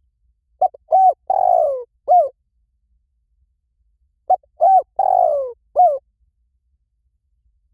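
Spotted dove cooing: two phrases about three and a half seconds apart. Each phrase is a few short coos around one long falling croon.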